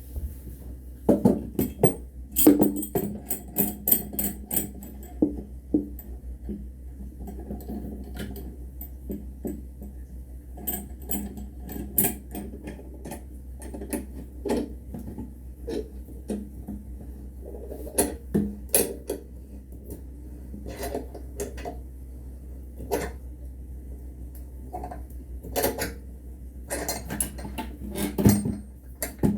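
Irregular clinks and knocks of metal parts and tools being handled on a workbench, over a steady low hum.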